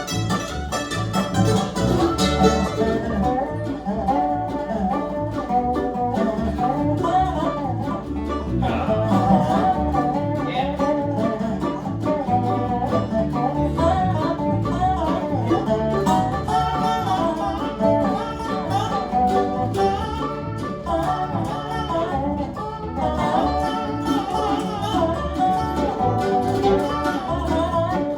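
Bluegrass band playing an instrumental stretch with banjo and guitar prominent, a steady run of fast plucked notes.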